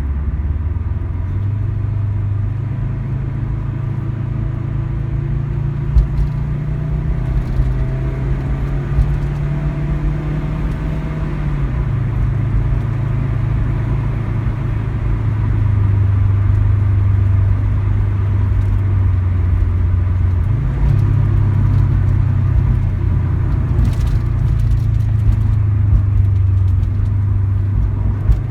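Subaru WRX STI A-line's turbocharged flat-four, with an unequal-length exhaust manifold and a BLITZ NUR-SPEC VSR Quad aftermarket muffler, running under light acceleration with its deep, uneven boxer rumble. The engine note steps up and down in pitch several times and gets louder about halfway through.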